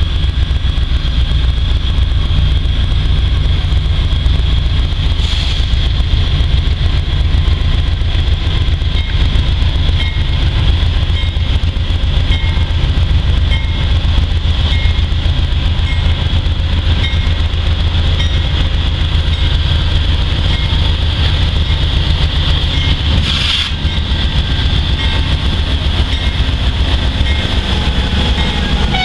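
Freight train rolling slowly, with a heavy steady low rumble and a steady high whine over it. A few clanks stand out, the loudest about three-quarters of the way through.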